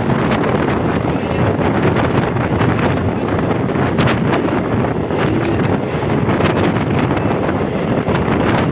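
Wind buffeting the microphone over a steady rumble, with frequent short clicks and rattles.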